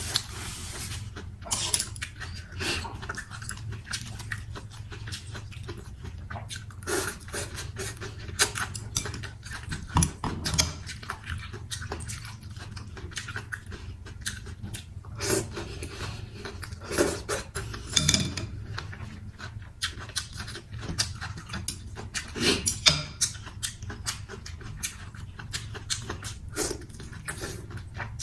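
Close-miked eating of a bowl of noodles with chicken: wet chewing and slurping in irregular bursts, with occasional clicks of utensils against the bowl.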